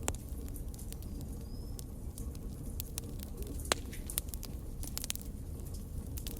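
Fire burning in a fireplace, crackling with scattered sharp pops and snaps over a steady low rumble; one louder pop a little past halfway.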